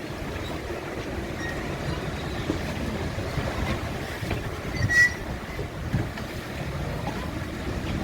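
Strong gusting wind, a steady rushing rumble. About halfway through there is a short high squeak, and a dull knock follows about a second later.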